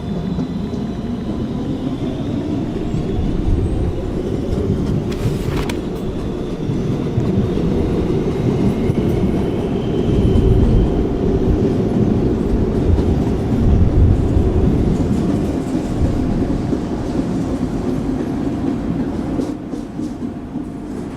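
A New York City subway train running between stations: the steady rumble and rattle of the car's wheels on the rails, growing louder in the middle, with a single sharp click about five seconds in.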